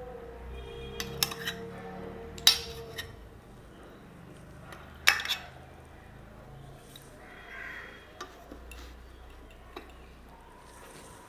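Eating utensils and dishes clinking and knocking as food is served and eaten from a plate: a few scattered sharp clinks, the loudest about two and a half and five seconds in.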